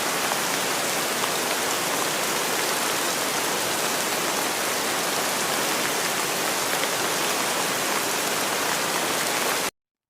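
Steady rain: a dense, even hiss with faint scattered drop taps, cutting off suddenly near the end.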